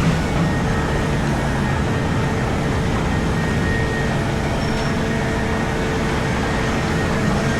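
Komatsu PC4000 hydraulic mining excavator running, heard from inside its operator's cab: a steady drone of engine and machinery with a low hum.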